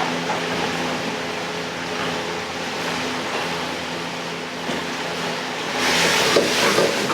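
Steady hum and hiss of a commercial kitchen's ventilation and gas burners, swelling into a louder hissing rush with some clatter about six seconds in.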